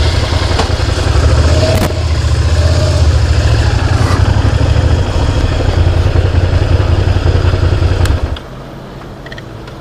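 Motorcycle engine running at idle with a steady, low, even pulsing beat. The sound drops away sharply about eight seconds in.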